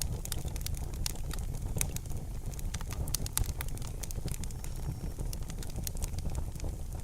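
Wood fire burning in a fireplace: many irregular sharp crackles and snaps over a steady low rumble of the flames.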